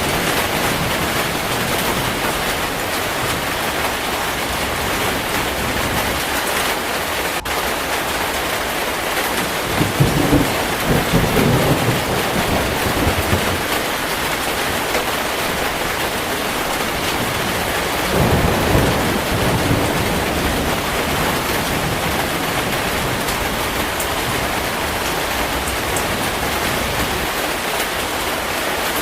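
Heavy steady rain, with two low rolls of thunder about ten and eighteen seconds in.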